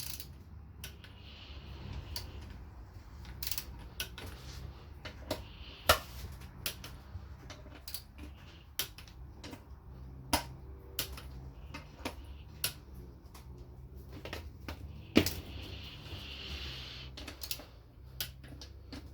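A torque wrench clicking and ratcheting as the valve body bolts of a Honda Accord automatic transmission are tightened to 9 foot-pounds. Sharp metallic clicks come at irregular intervals over a low steady hum.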